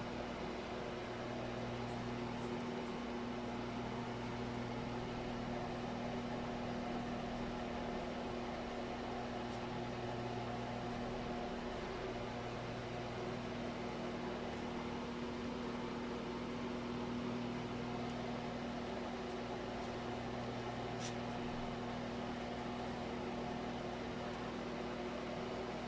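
Steady mechanical hum over an even hiss, with a few faint ticks.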